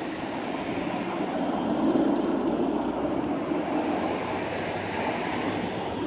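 Steady rumbling roar of distant aircraft engines, swelling a little about two seconds in.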